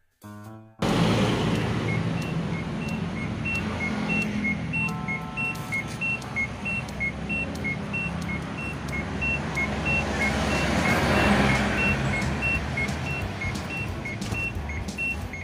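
LG top-loading washing machine running: a steady motor and drum noise with a low hum, swelling for a moment a little past the middle. A rapid, regular chirp alternating between two high notes runs over it.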